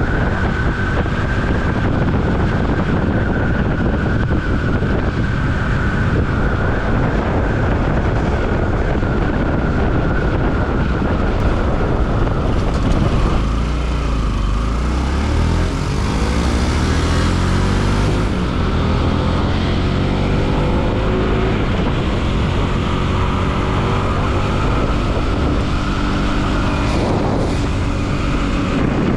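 Bajaj Pulsar NS200 single-cylinder motorcycle engine running under way, with wind rushing over the microphone. About halfway through, the engine pitch rises as the bike accelerates.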